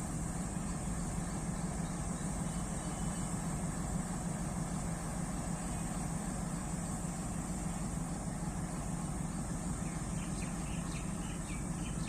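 Diesel locomotive engine running steadily with a low drone and a steady high hiss, and a few short bird chirps about ten seconds in.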